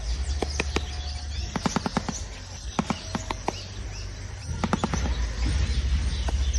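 A shoebill clattering its bill: short runs of rapid, hollow wooden clacks, over a low wind rumble.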